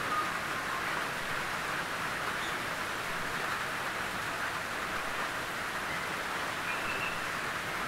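Gentle rain falling steadily on a tin roof, an even, unbroken hiss of drops on the metal.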